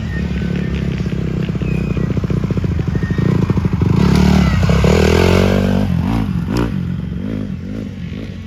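150cc dirt bike engine running under throttle as it is ridden. It is loudest about four to five seconds in, then its pitch rises and falls repeatedly as it grows quieter.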